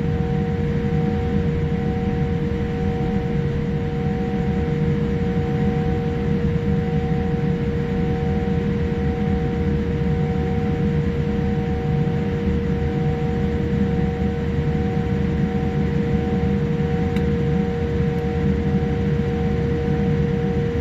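Steady cabin noise inside a Boeing 787-8 airliner: the rush of the air-conditioning with a low rumble, a constant hum, and a slightly higher tone that pulses on and off.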